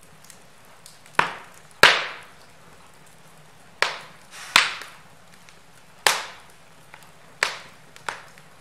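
Logs burning in a fireplace, crackling with about seven loud sharp pops that each die away quickly, over many faint small crackles.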